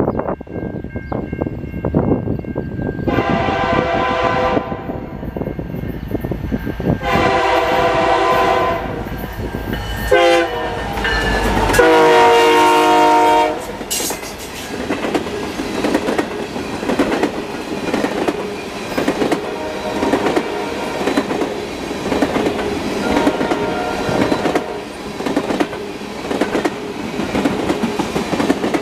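Canadian National SD70M-2 diesel-electric locomotives passing at speed and sounding the horn in the grade-crossing pattern: long, long, short, long. The pitch drops as the engines go by, and the tank cars follow, clattering over the rail joints.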